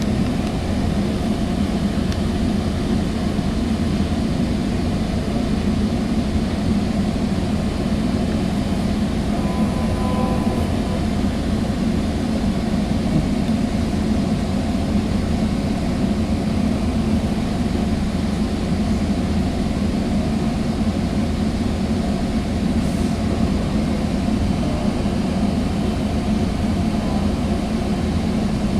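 Steady rumble of a Sound Transit Sounder commuter train under way, heard from inside a bilevel passenger coach.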